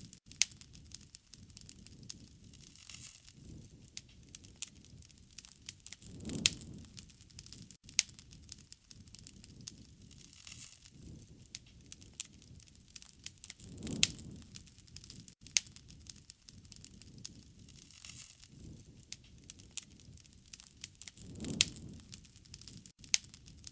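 Wood fire crackling, with sharp pops scattered throughout and a soft low swell of the flames about every seven to eight seconds.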